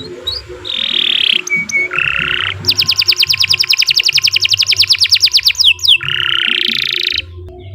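Domestic canary singing: short rolling buzzy phrases, then a long rapid trill of repeated notes at about ten a second for some three seconds, then another rolling phrase that stops about seven seconds in. A low pulsing sound runs underneath.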